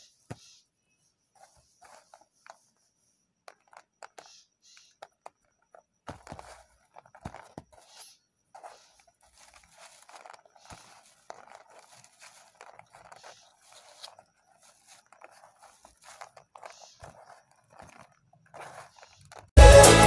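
Knife cutting and scraping a green Medimix soap bar: scattered faint crunches and scrapes. Loud music with a heavy beat starts near the end.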